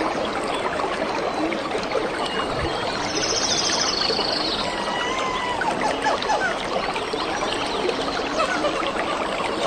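Nature ambience: a steady wash of running water with many birds calling over it. A short, high bird trill comes about three seconds in.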